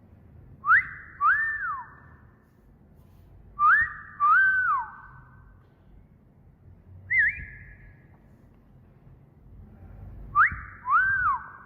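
Wolf whistles, repeated: three two-note whistles, each a quick rising note followed by a longer note that rises and then slides down, and a short single rising note about seven seconds in. Each whistle trails off with an echo.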